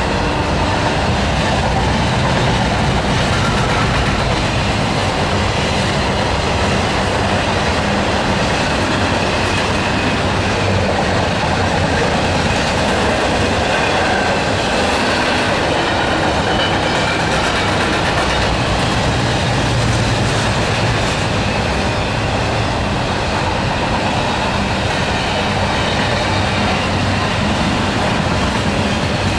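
Double-stack container freight train rolling past: loud, steady rumble and rattle of the railcar wheels on the rails as the stacked container cars go by.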